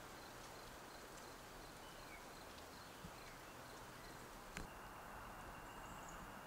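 Faint, quiet woodland ambience with a small high chirp repeating about four times a second, a few brief distant bird calls, and a thin high note held for about two seconds near the end.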